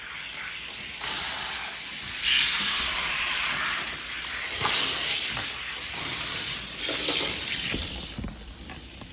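Diecast toy cars rolling fast down a plastic racing track: a rushing, rattling whir that comes in surges, with a few sharp clicks as they run through the track.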